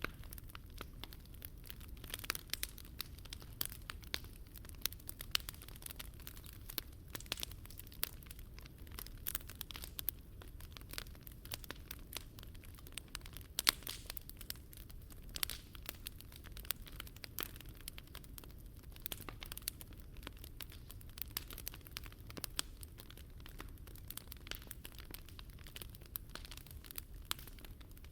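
Wood fire burning in a Picogrill 398 fire stand, crackling with many irregular sharp pops, the loudest about halfway through, over a low steady rumble.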